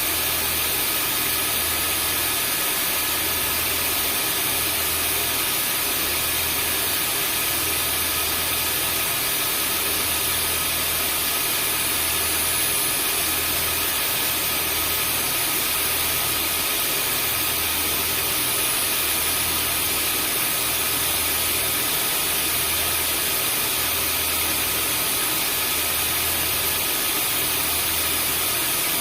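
Vacuum cleaner running steadily: an even rushing hiss with a few steady high whine tones from the motor. Underneath is a low hum that swells and fades every couple of seconds.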